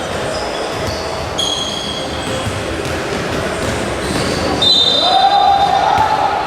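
Basketball game in a gym: sneakers squeaking on the court over crowd noise. Near the end a louder held tone rises in and holds.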